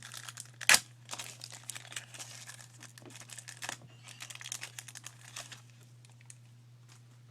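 Foil wrapper of a football trading-card pack crinkling and tearing as it is handled and opened, with one sharp loud snap about a second in; the crinkling stops after about five and a half seconds.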